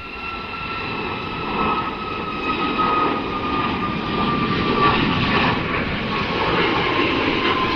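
Jet aircraft taking off: a rumble of engine noise with a high whine that slowly falls in pitch, growing louder.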